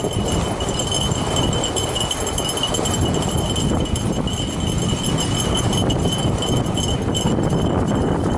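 Snow bike rolling and bumping along a snowy trail while pulled by running dogs: a continuous rumble and rattle, with a steady high-pitched ring throughout.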